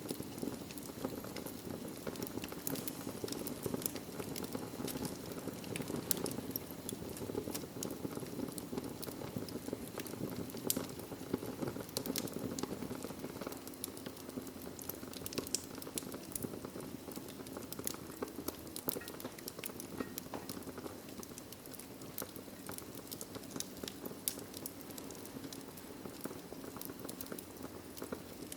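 Wood fire burning in a fireplace: a steady low rush with frequent small, sharp crackles and pops.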